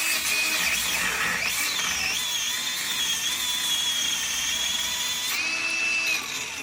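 High-speed rotary power tool whining as it runs under load, its pitch dipping and recovering early on, then holding steady. Near the end it is released and spins down, with the pitch falling away.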